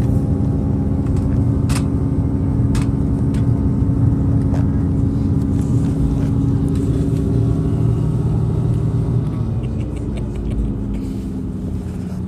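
Train running, heard from inside the carriage: a steady low rumble with a level hum and a few sharp clicks. About nine seconds in, the hum drops in pitch and the noise eases slightly, as the train slows.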